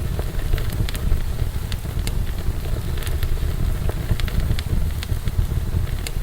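Wood fire burning in a fireplace, a steady low rush of flames with frequent sharp crackles and pops scattered throughout.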